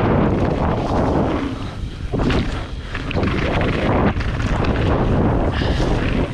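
Wind buffeting a GoPro Hero 8's microphone on a downhill mountain bike run, with tyre noise and irregular knocks and rattles from the full-suspension bike over the trail. The rush eases briefly about two seconds in, then surges again.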